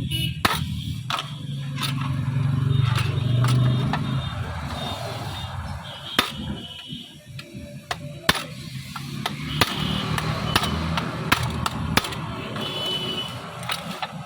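Irregular sharp metal clicks and taps, roughly one every second or two, from tools and parts being handled while a marble cutting machine is taken apart, over a low steady hum.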